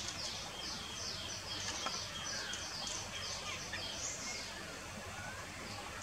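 A bird calls with a fast series of high, downward-slurred notes, about three a second. The series stops about four seconds in, and a few more notes follow near the end.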